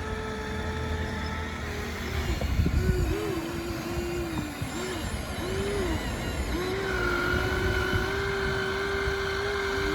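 Small electric motors of radio-controlled toy construction machines whining, starting and stopping in short bursts with the pitch rising and falling as the controls are worked, then holding a steady note for the last few seconds with a second, higher whine joining about seven seconds in. A rough, noisy patch sounds about two to three seconds in.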